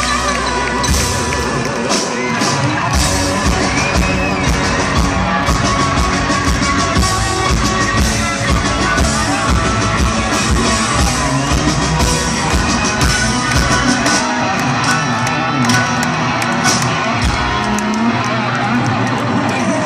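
Live rock band playing loud, with electric guitars and drums driving a steady beat.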